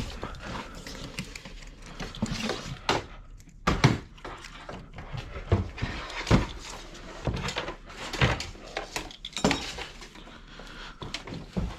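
Irregular clicks, light clanks and knocks of a motorcycle battery charger and its leads being handled and moved by hand.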